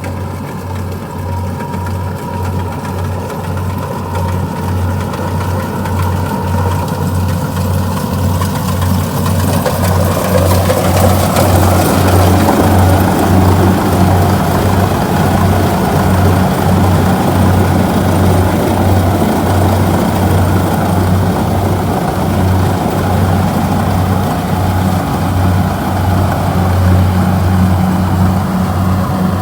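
Kubota DC-70G combine harvester's diesel engine and threshing machinery running with a steady, rhythmic low throb. The machine grows louder over the first ten seconds or so, then holds steady.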